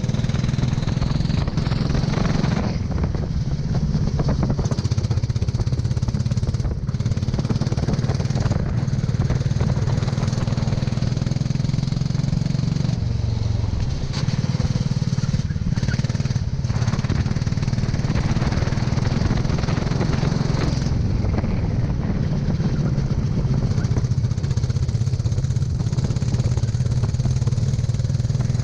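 Go-kart engine running hard at a fairly steady pitch, with a steady hiss over it. The engine note drops briefly about halfway through and again about two-thirds of the way in.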